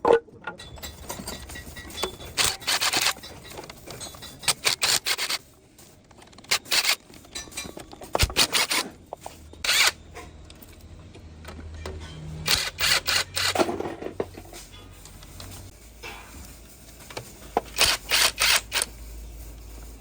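Hand tools working on metal engine parts: short bursts of rapid clicking, several times over, typical of a ratchet wrench undoing bolts, with a low hum underneath.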